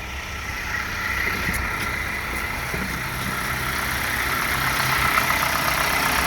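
Isuzu 4HK1-TC 5.2-litre four-cylinder turbo-diesel engine running steadily, getting somewhat louder over the first few seconds.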